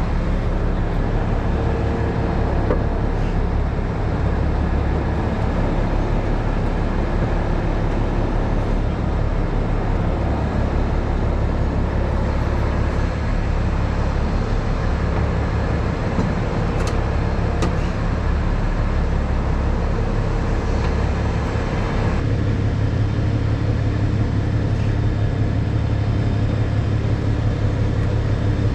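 Heavy rotator wrecker's diesel engine running steadily under a lift, its low note shifting a little over twenty seconds in.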